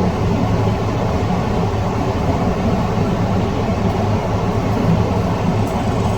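Steady low droning noise with a constant hum underneath, unchanging throughout.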